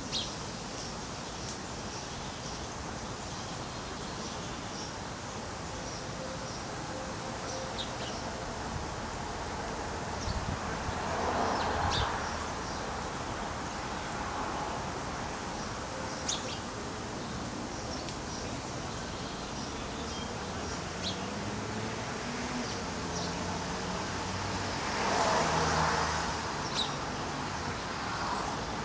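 Small birds chirping now and then: short, high chirps scattered over a steady outdoor background. Twice, once midway and once near the end, a broader rush of noise swells up and fades.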